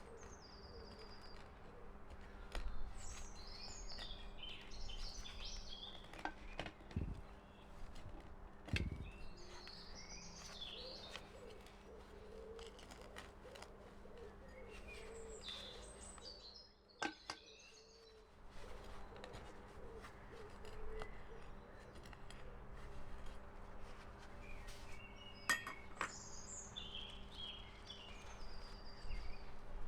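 Songbirds chirping and twittering in short bursts, with a few sharp knocks and a faint steady hum underneath.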